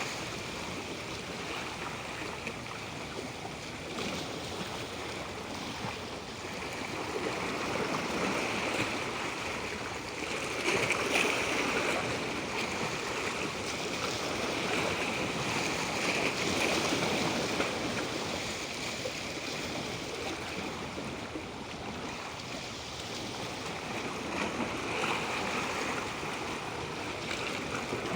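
Natural running water: a steady rushing noise that swells and eases a little now and then.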